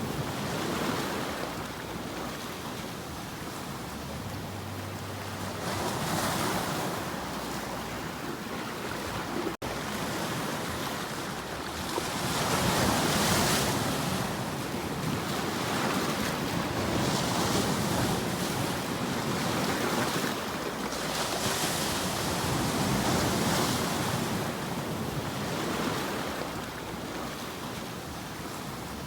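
Ocean waves washing in and drawing back, a steady rush that swells and fades every few seconds, with a momentary drop-out in the sound about ten seconds in.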